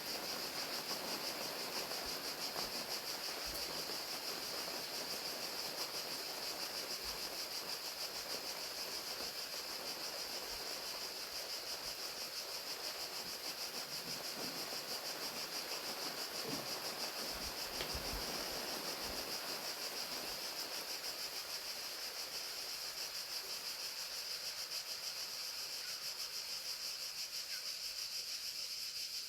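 Crickets chirping in a steady, high-pitched pulsing trill over the continuous hiss of falling rain.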